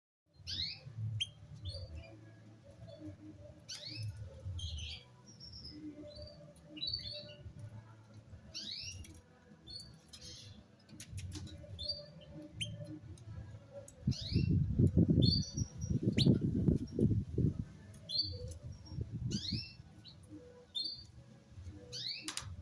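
Small birds chirping: many short, quick falling chirps, with a stretch of low rumbling noise about two-thirds of the way through.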